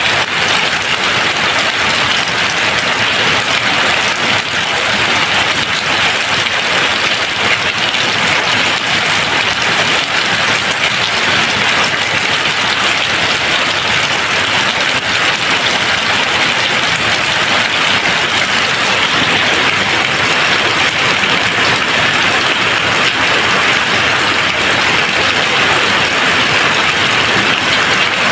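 Steady, dense rain falling with an even hiss, no thunder.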